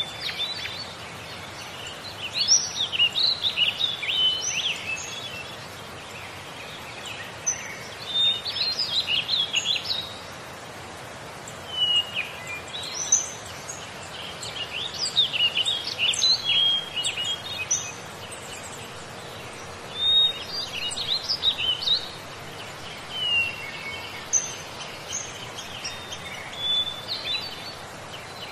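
Songbird singing: quick, chirpy phrases of two to three seconds, repeated about every few seconds with short pauses between, over a steady background hiss.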